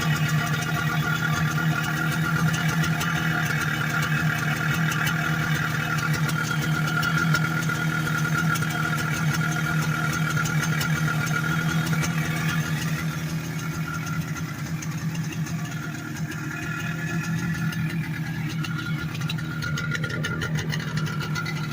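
Yamaha RD350's air-cooled two-stroke parallel twin running at a steady idle after its restoration, easing off slightly a little past the middle.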